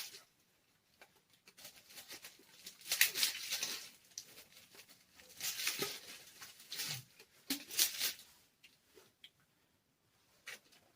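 Plastic bag of engine stand hardware being torn open and handled, with irregular bursts of crinkling and rustling.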